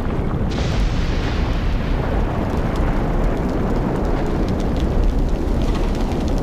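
Volcanic eruption sound effect: a loud, deep rumble with dense crackling, its hiss rising sharply about half a second in.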